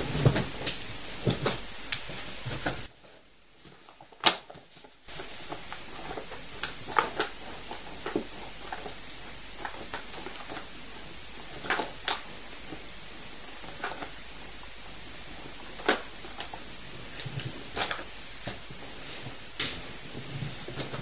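Irregular sharp knocks and clicks a second or more apart, the loudest about four seconds in, over a steady hiss. The man recording takes them for upstairs neighbours knocking.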